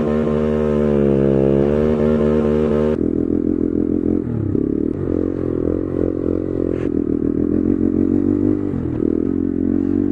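Honda Grom (MSX125) motorcycle engine running steadily, its tone changing abruptly about three seconds in.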